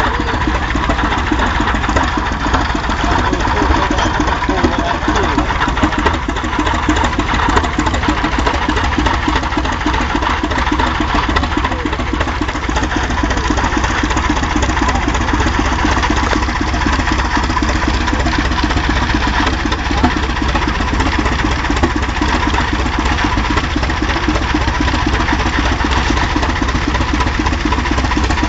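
Holt crawler tractor's engine running steadily with a fast, even beat.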